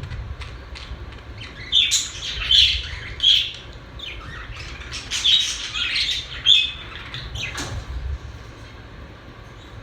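Pet budgerigars chirping and squawking in short bursts, busiest in two clusters early and midway, over a steady low room hum.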